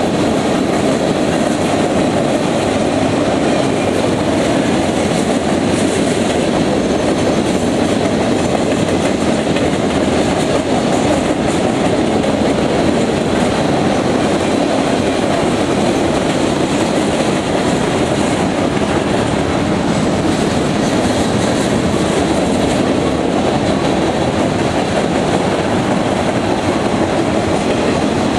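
Freight train cars rolling past on steel wheels, a steady, loud rumble of wheels on rail.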